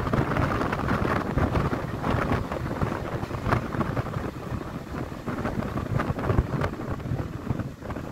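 Wind buffeting the microphone at the open window of a moving passenger train, over the low rumble of the train running on the track, with scattered sharp clacks.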